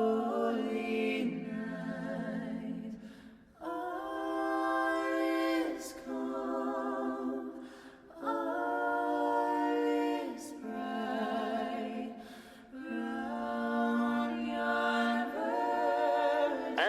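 A cappella vocal music: voices sing long held notes in phrases of a few seconds each, with short breaks between them.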